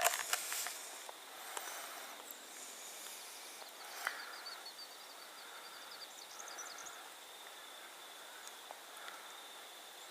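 Quiet rural riverside ambience: a steady high insect drone, with a few faint bird chirps about four and six seconds in and a few light knocks at the very start.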